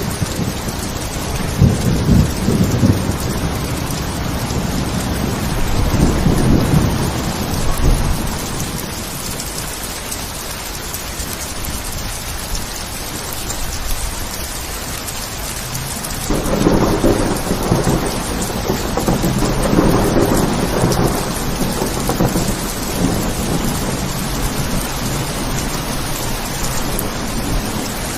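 Steady rain with rolls of thunder: two shorter rumbles in the first eight seconds, then a louder one that breaks in suddenly about halfway through and rolls on for several seconds before easing.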